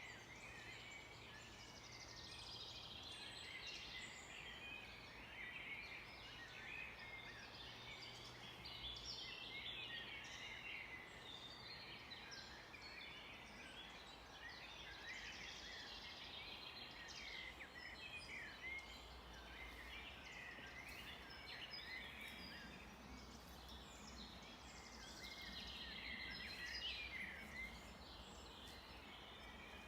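Many songbirds singing at once, a dense, continuous overlap of chirps, trills and quick whistled glides, over a faint steady hiss.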